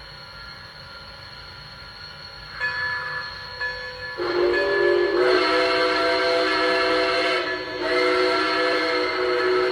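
Lionel Legacy RailSounds steam whistle of an O gauge Blue Comet model locomotive, played through the model's small speaker: a chime whistle that starts softly about two and a half seconds in, then sounds two long loud blasts with a short break between them, over a steady hiss.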